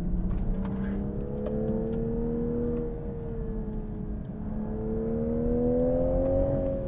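A 2022 Toyota GR Supra 3.0's BMW B58 turbocharged inline-six, heard from inside the cabin as the car accelerates. The engine note rises twice, easing off about three seconds in and falling back near the end, over steady tyre and road rumble.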